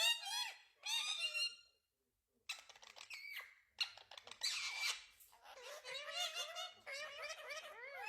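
Indian ringneck parakeet chattering in a quick run of high, squeaky calls, with a short pause about two seconds in and a harsher screech around the middle.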